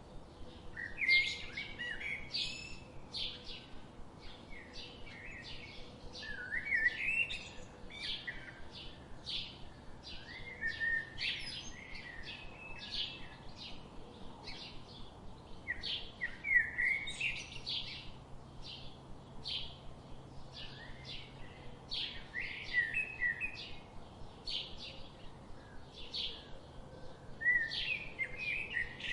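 Songbirds chirping and singing: rapid short high notes throughout, with a louder warbling phrase every few seconds.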